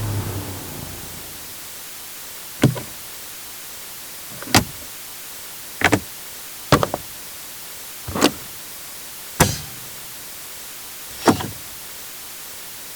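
Truck equipment clicking. A steady sound fades away in the first second, then seven separate sharp clicks or knocks follow, about one every one to two seconds, some of them double clicks.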